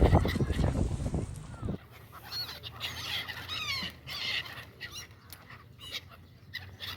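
A loud noisy rush that cuts off abruptly under two seconds in, followed by birds calling with short high chirps and whistles, several of them sliding down in pitch.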